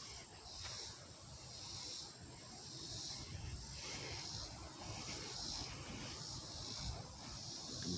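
Insects chirring in a steady rhythm, a high, hissy pulse repeating a little more than once a second, over a low rumble.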